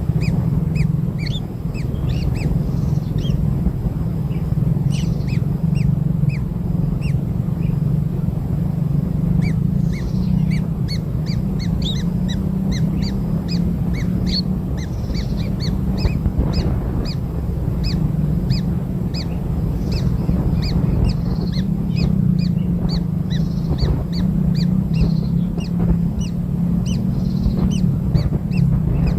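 Many short, high bird chirps, often several a second, over a steady low hum.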